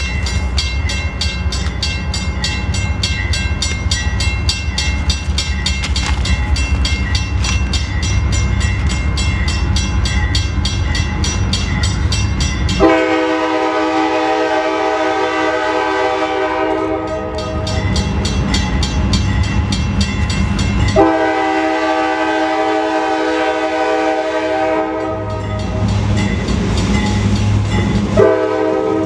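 A freight train's diesel locomotive rumbling past with fast, even clicking. About thirteen seconds in, its air horn sounds a long chord, then a second long blast, and a third starts near the end.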